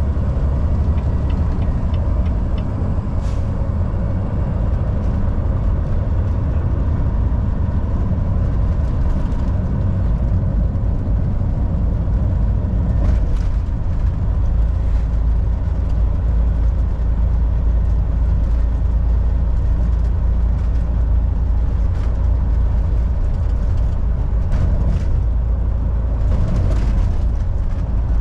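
Volvo VNL 760 semi truck driving at steady speed: a constant low engine drone and road rumble, with a few faint ticks here and there.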